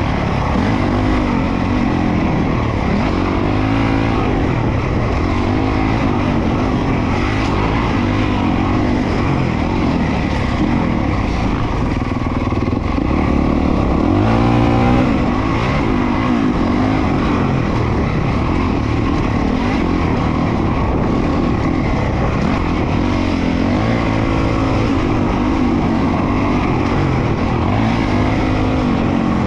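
Honda CRF450RWE single-cylinder four-stroke motocross engine revving up and down as the bike is ridden around a dirt track, its pitch rising and falling every second or two, with a louder rev about fifteen seconds in.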